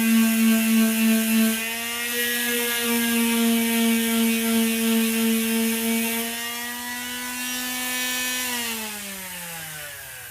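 Handheld electric power tool running at a steady pitch, then winding down with a falling pitch near the end as it is switched off.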